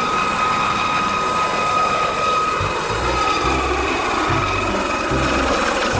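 Electronic helicopter sound effect from a toy military helicopter: a steady whirring rotor noise with a high, even whine.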